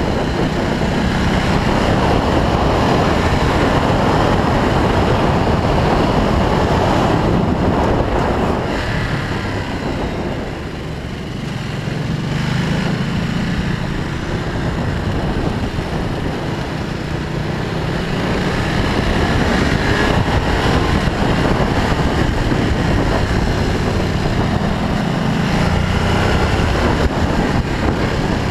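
Onboard sound of a Ducati Multistrada Pikes Peak's V-twin engine pulling along a winding road, mixed with heavy wind rush on the microphone. The sound drops a little about ten seconds in, then builds again.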